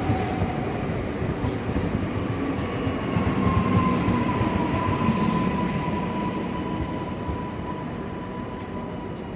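Freight train running past on the rails: a steady rumble of wheels and wagons with a sustained high whine above it, easing off somewhat near the end.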